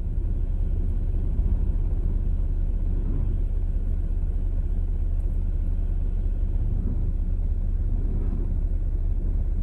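Jeep Wrangler engine running steadily at low revs, a low even rumble.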